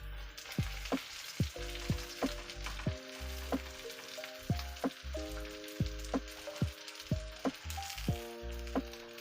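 Food sizzling in a hot frying pan, a steady hiss. Under it runs background music with sustained chords and a regular deep drum beat, about two hits a second.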